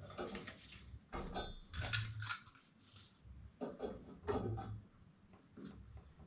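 Metal tools and pipe fittings clinking and rattling as they are handled, in irregular clusters of clicks, one with a short metallic ring about a second in.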